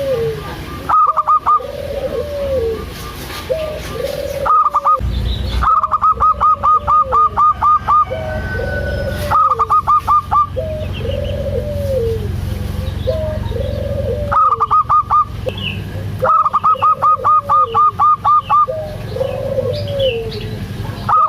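Zebra doves (perkutut) calling: a low arched coo repeated about once a second, broken several times by loud bursts of rapid staccato higher notes.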